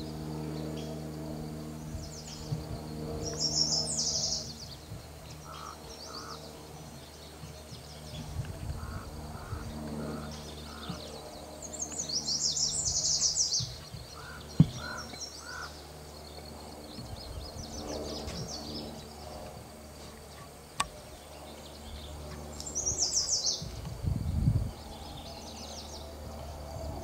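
Wild birds calling: a high, fast chattering phrase comes three times, with short runs of two to four clear mid-pitched notes in between, over a steady low hum. A sharp click stands out about halfway through.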